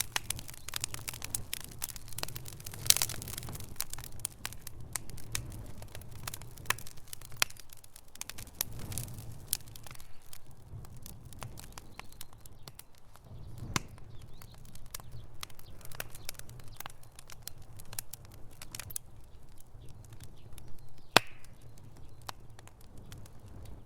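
Wood fire in a fireplace crackling: irregular sharp pops and snaps over a low steady rumble, with a louder pop about three seconds in and another near the end.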